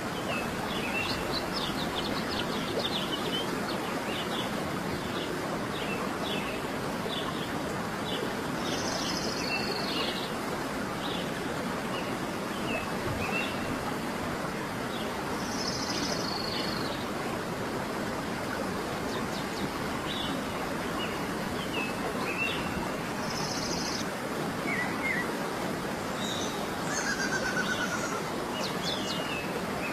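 Birds singing and chirping: many short chirps and a clear call that repeats every several seconds, over a steady, even background hiss.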